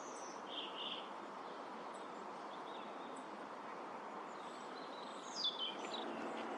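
Steady outdoor background noise with a few faint bird calls: a short chirp about half a second in and a quick run of falling notes about five seconds in.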